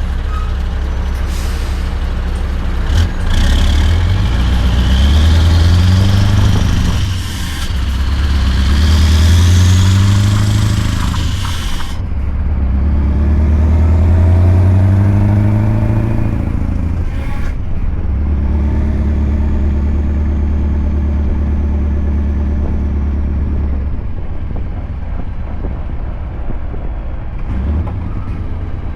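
Scania R580 V8 truck with a straight-piped exhaust pulling away through the gears. The engine note rises and then drops at each of three shifts, with a short sharp hiss at the changes. It then settles to a steadier pull and eases off near the end.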